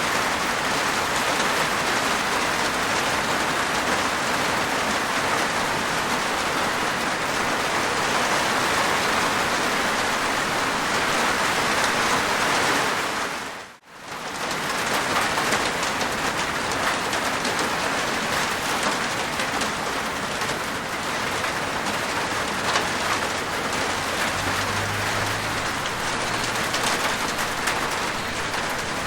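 Steady heavy rain falling on a rooftop, a dense even patter of raindrops. About fourteen seconds in, the sound fades out for a moment and comes straight back.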